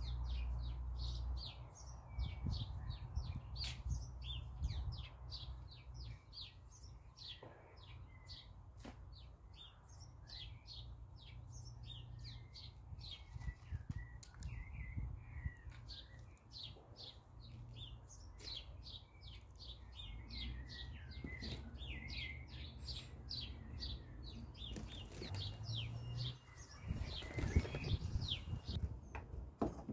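Garden birds chirping continuously in quick short notes, over a low steady rumble, with a few louder knocks near the end.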